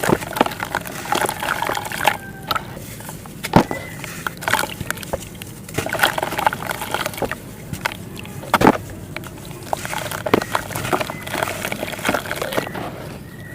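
Wet clay paste being dipped and crumbled by hand: irregular squelching, sloshing and crackling, with a few sharper knocks.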